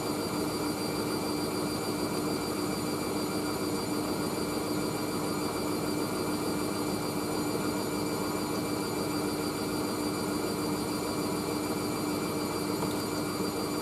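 Hoover Whisper 1600 washing machine in an intermediate spin at about 400 rpm. Its motor and drum give a steady hum with a held tone over a constant rush, and the speed stays level throughout.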